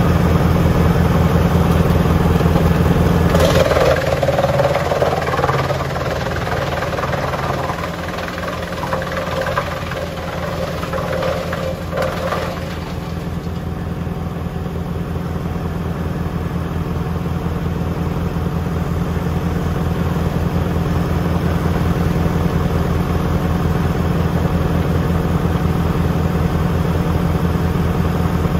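A tractor's diesel engine running steadily with a wood chipper, with a stretch of rough mechanical noise over it from about four to twelve seconds in.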